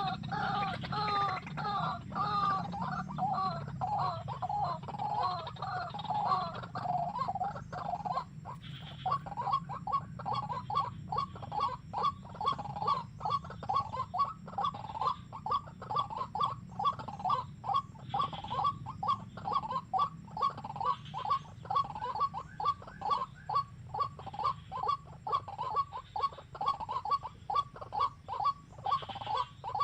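Small bird calling: a warbling run of quick notes for the first several seconds, then a long, even series of short chirps about two a second.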